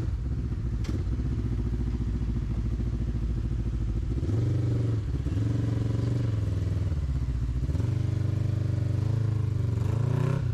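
Off-road vehicle's engine idling, then given throttle in two long pulls, about four seconds in and again near eight seconds, under load as it crawls up a rock.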